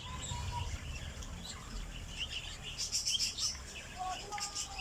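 A flock of caged budgerigars and cockatiels chirping and chattering, with many quick high chirps overlapping and a few short whistled notes, busiest about three seconds in. A low rumble sits under the first second.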